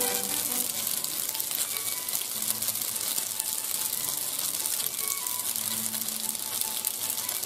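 Penne pasta and chicken frying in a nonstick pan, a steady crackling sizzle throughout, with background music playing.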